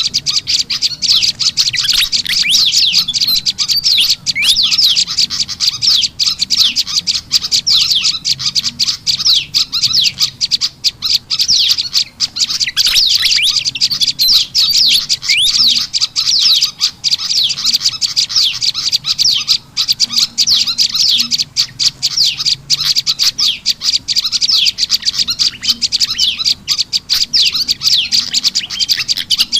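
Bird-luring recording of small songbirds: a prenjak lumut's rapid, high chirping mixed with the noisy calls of a kipasan (fantail), a dense, unbroken stream of sharp chirps.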